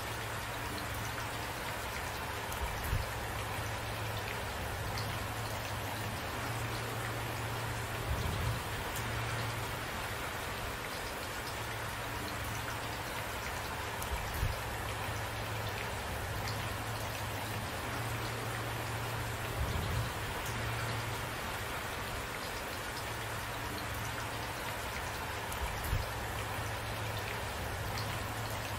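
Steady rain falling on a surface, an even hiss of drops with no thunder. A few louder low knocks of heavier drops stand out, about every five or six seconds.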